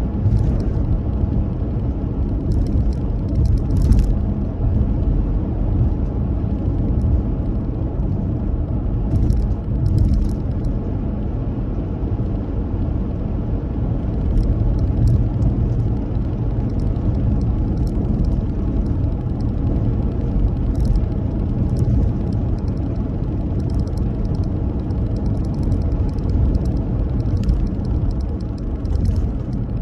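A car driving, with a steady low rumble of road and engine noise. Faint short ticks come and go over it.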